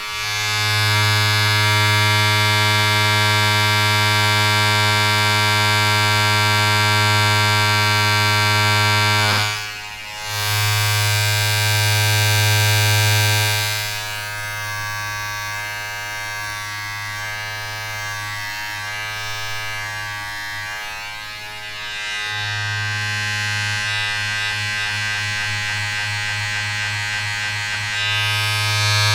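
Steady electric buzz, a low hum with many overtones, like a small electric appliance running. It cuts out briefly about ten seconds in, runs quieter and rougher through the second half, and returns to full strength near the end.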